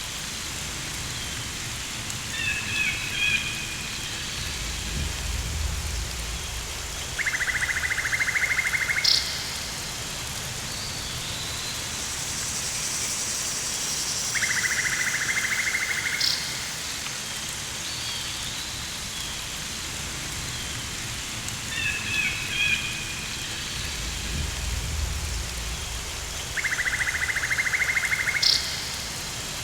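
Rainforest ambience: a steady rain hiss with short bird chirps and an insect trilling in rapid pulses for about two seconds at a time, four times. Low rumbles come twice.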